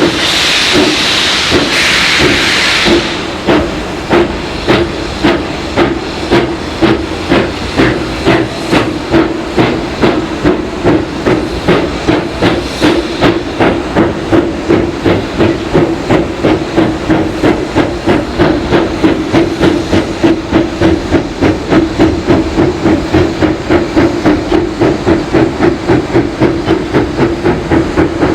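Steam locomotive moving off. A loud hiss of escaping steam stops suddenly about three seconds in. Then evenly spaced exhaust beats follow, quickening from about one to about three a second as the engine gathers speed.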